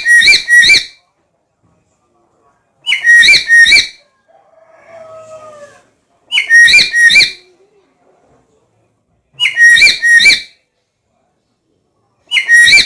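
Black-capped lory calling: loud bursts of three or four shrill whistled notes, each burst about a second long, repeating at even intervals of about three and a half seconds. A faint falling tone sounds between the second and third bursts.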